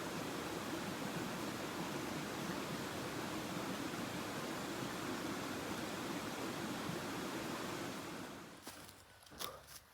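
Steady rush of flowing river water, an even noise that fades out about eight seconds in; a few sharp clicks like footsteps follow near the end.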